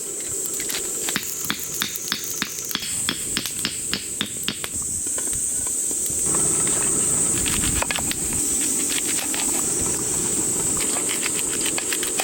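Pork belly sizzling on a grill, with a steady high hiss and the fat popping in quick sharp snaps, thickest through the first five seconds or so and sparser after.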